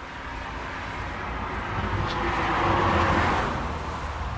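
A road vehicle passing by, its engine and tyre noise swelling to a peak about three seconds in and then fading.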